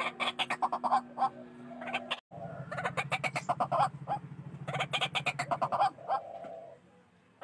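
White-breasted waterhens calling: fast runs of harsh, repeated notes. The calling breaks off abruptly about two seconds in and then starts again over a low steady hum, tailing off near the end.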